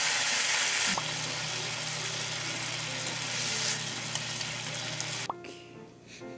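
Slices of Spam sizzling in a nonstick frying pan in a bubbling soy-sauce glaze as chopsticks turn them. The sizzle is loudest in the first second, then eases and stops about five seconds in.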